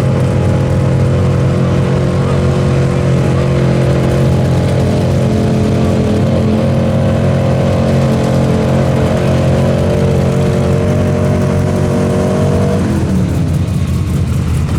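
A pulling truck's engine held at high revs under full throttle, loud and steady, then winding down in pitch near the end as the throttle comes off.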